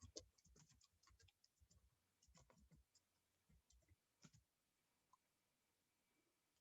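Near silence, with a few faint clicks of a computer mouse near the start and again a couple of times later.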